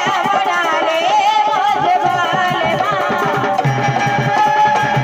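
Indian folk music: a wavering, heavily ornamented melody line over repeated hand-drum beats.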